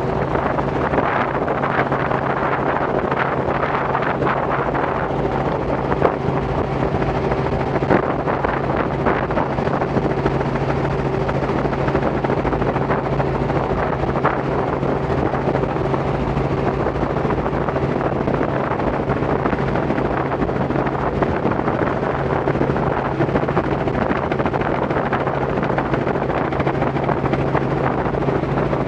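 Robinson R44 helicopter in flight: the steady drone of its piston engine and rotors, a low hum with a fainter higher tone, over wind noise on the microphone. The engine is losing oil through a leak, with the oil pressure bouncing.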